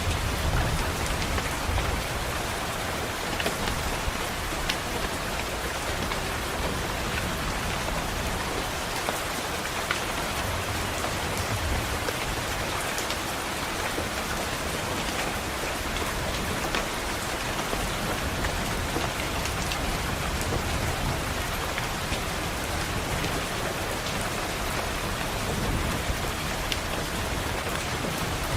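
Steady rain pattering on a window glass, with scattered sharp drop ticks. Soft low rumbles of distant thunder swell a few times.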